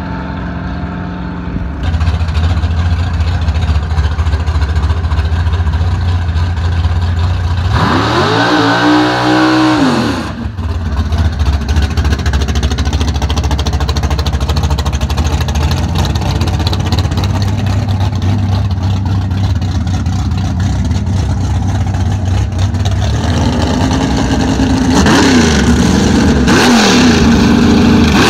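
Car engine running at a steady idle, getting louder about two seconds in. It is revved up and back down once about eight seconds in, then revved several more times near the end.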